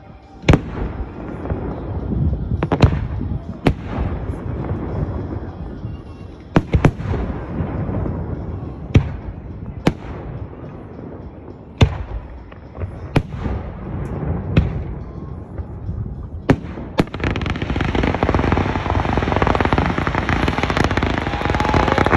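Fireworks display: about a dozen sharp aerial shell bursts, a second or two apart, over a low rumble of echoes. Near the end the bangs give way to a dense, continuous crackling hiss as ground-level fountain fireworks spray from the lake surface.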